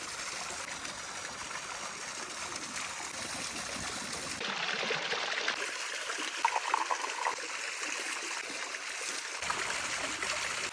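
Running water trickling and splashing steadily, with a few brief louder splashes a little past the middle and abrupt changes in tone where takes are cut together.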